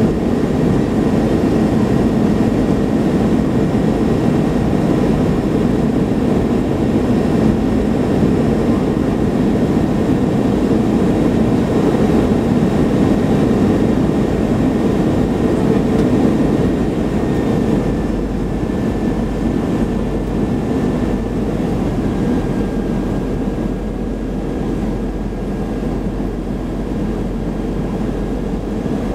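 Cabin noise inside an Airbus A321 heard from a forward window seat: a steady, loud rumble of the engines and airflow, with a faint thin whine above it. The rumble eases slightly a little past halfway through.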